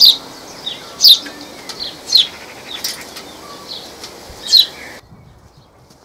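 Garden birds calling: loud, sharp chirps, each a quick downward sweep in pitch, repeated about once a second over a steady hiss, cutting off about five seconds in.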